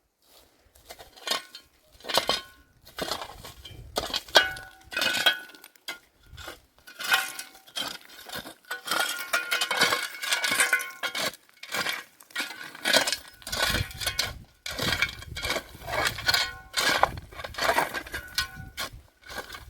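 Repeated clinking and knocking of hard objects: many sharp strikes at an uneven pace, some ringing briefly.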